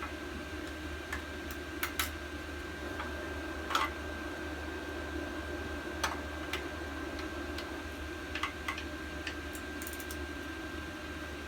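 Scattered light metal clicks and clinks from a socket wrench working nuts loose, over a steady background hum.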